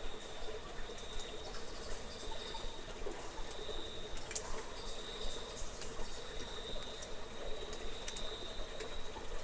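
Natural ambience at a cave: a steady high insect trill that swells and fades every second or so, with scattered sharp clicks and faint high chirps over a low hiss.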